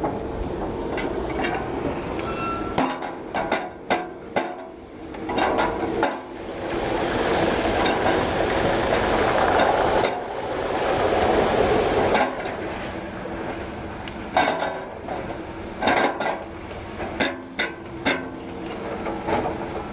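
Metal tools and parts clinking and knocking, a series of short sharp strikes. A loud rushing hiss runs for about six seconds in the middle, then the clinking goes on.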